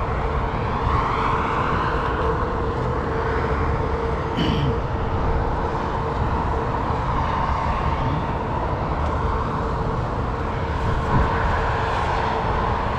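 Wind rumbling steadily on the microphone over traffic noise from passing vehicles.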